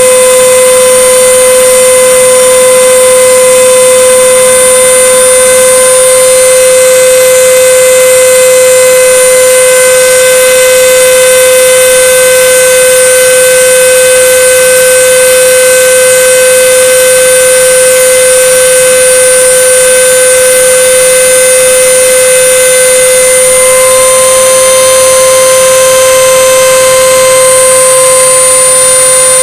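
CNC router spindle running with a steady, loud, high-pitched whine over a hiss while the bit mills 5 mm plywood. Near the end the upper overtones shift slightly.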